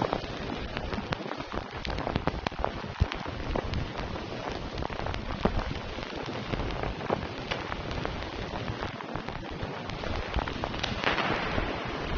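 Steady rain with many distinct drops hitting a surface close by, heard as a continuous hiss dotted with sharp individual taps.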